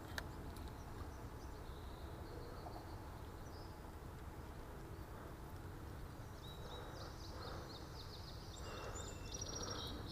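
Birds singing faintly in short twittering phrases, once a couple of seconds in and again for a longer stretch near the end, over a low steady outdoor background noise.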